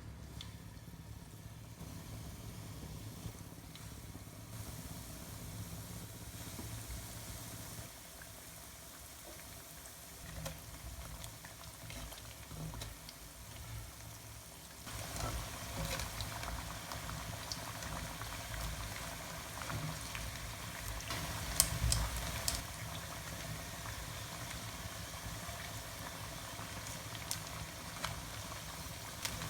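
Battered mung bean fritters deep-frying in hot oil, a steady bubbling sizzle. It grows louder about halfway through, with a few sharp clicks near the end.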